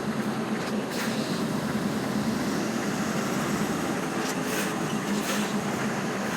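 Articulated lorry's diesel engine running steadily, heard from inside the cab during a slow reverse, with a low, even drone. A few brief higher noises stand out over it about a second in and again between four and five and a half seconds in.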